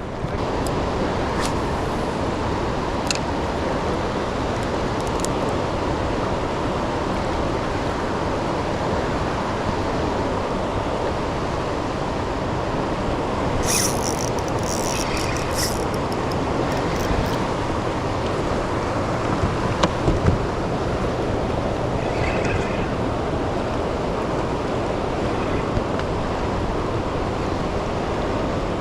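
Steady rushing of fast, turbulent water in the current below a hydroelectric dam, even and unbroken. A few faint high clicks come about halfway through.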